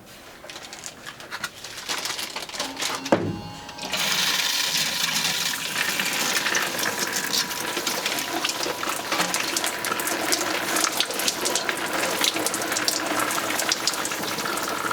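Pump-fed rainforest-style shower head spraying water, switched on with a click about three seconds in. The spray starts at full flow a moment later and runs steadily, with a faint steady whine from the small water pump underneath.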